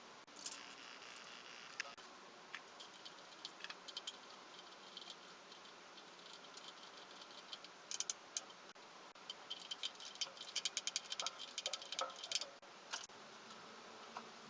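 Metal tools and parts clicking and clinking during engine work: scattered single clicks, then a dense run of quick clicks from about eight to thirteen seconds in.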